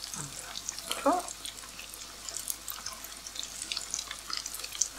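Breaded chicken nuggets shallow-frying in hot oil in a pan: a steady crackling sizzle of many small pops as they are turned with a fork. One short gliding squeak about a second in.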